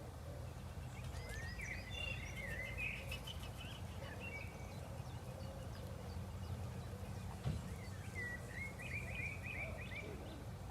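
Ducklings peeping: two runs of quick high chirps, the first about a second in and the second near the end, over a steady low background rumble. A single soft knock comes about seven and a half seconds in.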